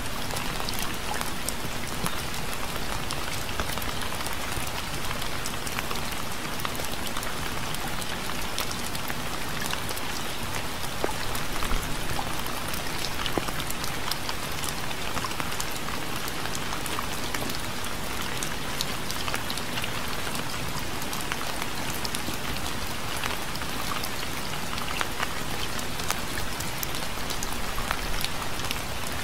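Steady rain falling on a surface, with many individual drops ticking through the constant hiss and a slightly louder patch about twelve seconds in.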